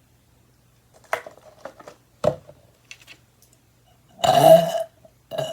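Eating and mouth noises with a few sharp clicks, then a loud burp about four seconds in, bigger than she expected, and another short burp near the end.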